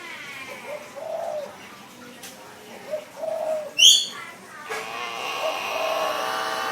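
Caged birds calling. A low coo repeats about every two seconds; a short falling call comes at the start and a loud, shrill call about four seconds in, followed by a longer wavering call.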